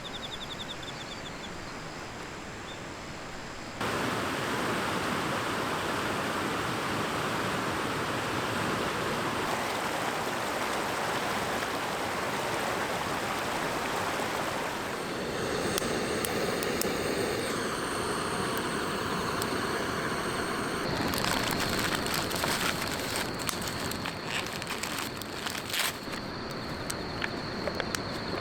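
Steady outdoor rushing noise, like flowing water, and from about halfway in a wood campfire crackling and snapping with many sharp pops.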